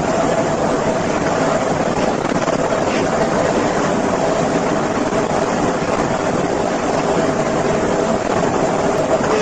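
Steady noise of a moving car, with road and engine noise and a faint steady hum, even throughout with no impact.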